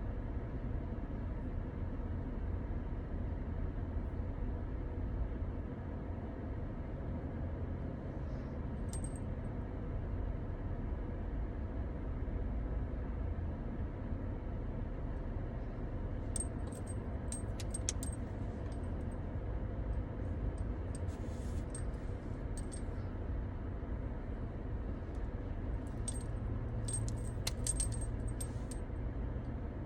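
Steady low rumble of a car heard from inside, with short bursts of light metallic jingling about nine seconds in and several times in the second half.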